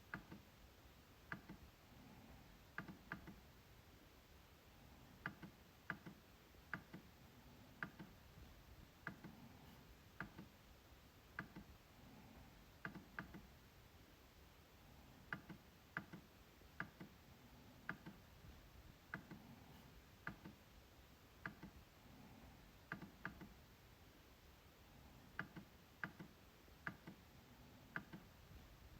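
MacBook trackpad being clicked: short, sharp clicks at irregular intervals, about one a second, often two in quick succession like a double-click, over near silence.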